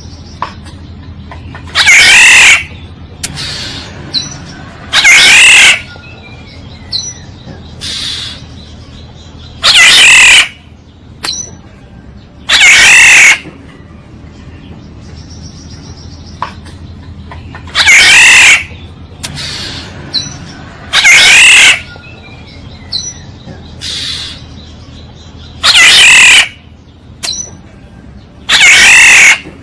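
Oriole giving loud harsh calls in evenly timed pairs, about three seconds apart, with a new pair roughly every eight seconds, as on a looped bird-lure recording. Faint short chirps of other birds fall between the calls.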